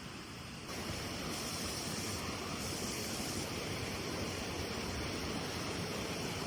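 Steady rush of water from a mountain stream, stepping up in level less than a second in and then holding even.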